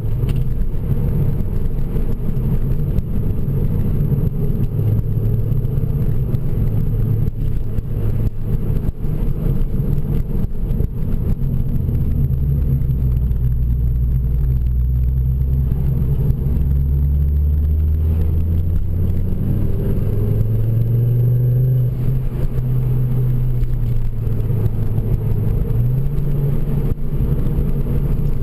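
Ford Focus RS MkII's turbocharged five-cylinder engine and Milltek exhaust, heard from inside the cabin while driving. The engine note drops to a low drone for several seconds partway through, then climbs again with rising revs, and rises once more near the end.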